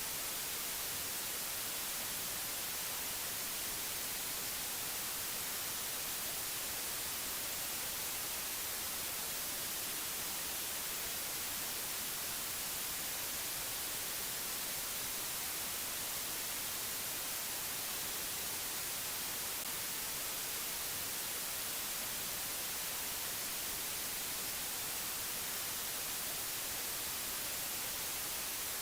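Steady white-noise hiss, unchanging throughout, brightest in the high treble, with no other sound over it.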